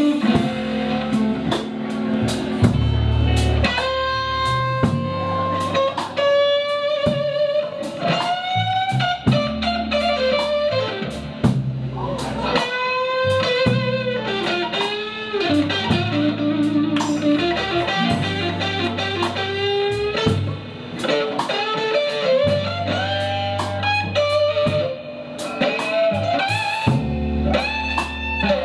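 Live rock band playing an instrumental opening, with an electric guitar playing a bluesy lead line full of string bends over bass and a drum kit keeping a steady beat.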